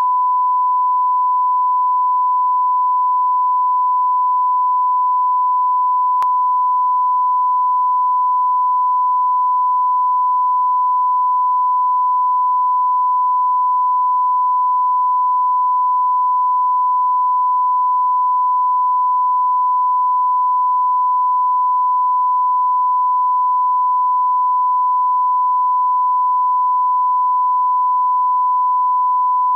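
Broadcast line-up tone, the standard 1 kHz reference tone that runs with colour bars: one steady, unbroken pure tone. A faint click comes about six seconds in.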